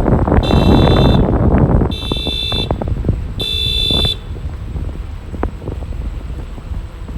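Three high electronic beeps, each under a second long and about a second and a half apart, stopping about four seconds in. Wind buffets the microphone throughout.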